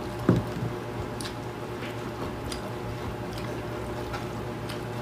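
Close-up eating sounds: chewing and soft squishy mouth noises with scattered faint clicks, over a steady low hum. A single dull thump is heard about a third of a second in.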